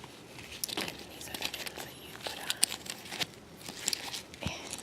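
Close-up crinkling and crackling with irregular sharp taps and scratches as hands handle a Whisker City cat carrier, with one dull knock near the end.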